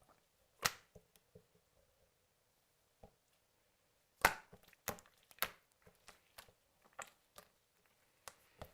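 Clay-mixed slime being squeezed and pulled by hand, giving off irregular sharp pops and clicks. There are a few early on, then they come more often from about four seconds in.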